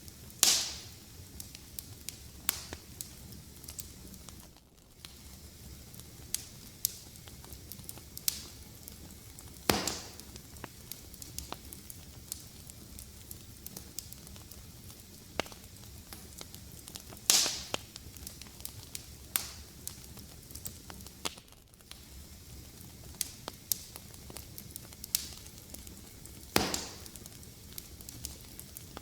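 Fireplace fire crackling, with frequent small snaps over a steady low hiss and four louder pops spaced roughly eight seconds apart.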